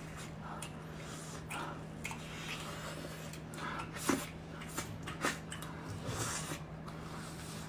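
Chewing and crunching of crispy pan-fried pies, with a few sharp crunches about four and five seconds in, over a steady low hum.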